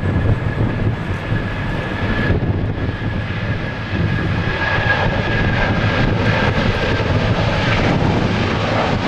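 Airbus A330-300's Rolls-Royce Trent 700 turbofans at takeoff power: a loud, steady jet rumble with a high, steady whine over it that dips a couple of seconds in and comes back stronger.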